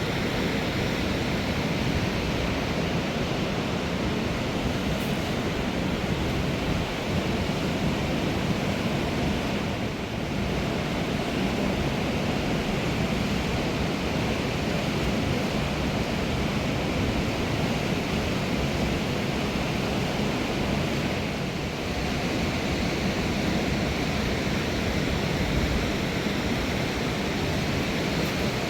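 Fast-flowing mountain river rushing: a steady, even roar of water, with slight brief dips about ten and twenty-two seconds in.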